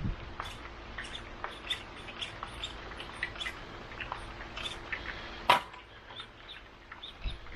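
Scattered light ticks of raindrops, irregular and several a second, with one louder sharp tap about five and a half seconds in.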